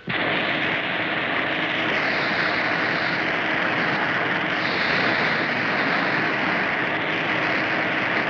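A vehicle under way: a steady rushing noise over a faint constant engine hum, starting abruptly.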